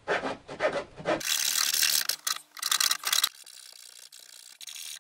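Handsaw cutting through a wood cabinet panel, with a series of back-and-forth rasping strokes. The sound changes abruptly about a second in and again past halfway, as if cut between separate stretches of sawing.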